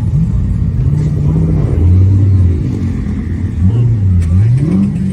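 A modified car's engine and exhaust revving, its pitch rising and falling several times and settling low for a moment about two seconds in.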